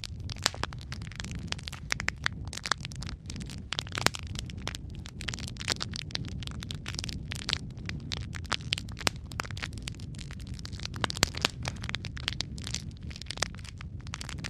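Wood fire crackling in a fireplace: a steady low rumble of the flames with irregular sharp snaps and pops, several a second.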